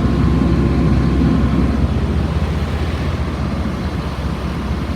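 2004 Blue Bird All American school bus's diesel engine running at a steady fast idle, its low drone easing slightly after about two seconds.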